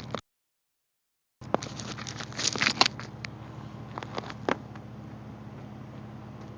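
Car engine idling steadily through a new exhaust, with a cluster of knocks and scrapes from the phone being handled and set down about two seconds in, and a few more knocks a little later. The sound drops out completely for about a second right at the start.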